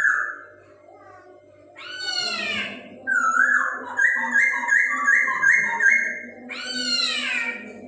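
Chinese hwamei (poksay Hongkong) singing: a slurred, falling, cat-like call, then a run of about five repeated whistled notes, then another falling call near the end.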